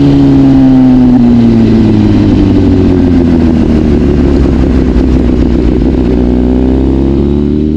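Honda CBR600RR's inline-four engine running. Its pitch falls over the first few seconds as the bike slows, then rises again near the end as it picks up speed.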